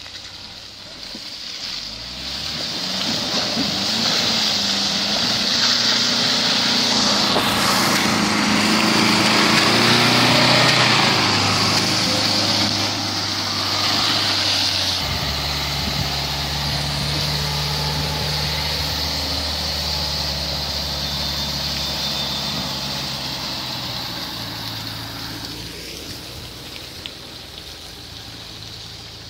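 An off-road SUV's engine working under load, building up and rising in pitch over the first few seconds, then dropping to a steadier, lower drone about halfway through and fading toward the end, with a steady hiss over it.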